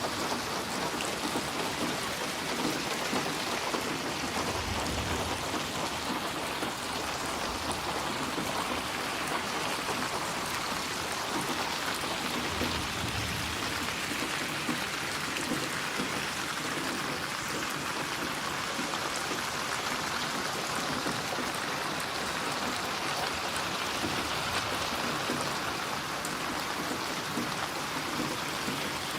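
Steady heavy rain falling on surfaces, a dense even hiss of drops, with two brief low rumbles about five and thirteen seconds in.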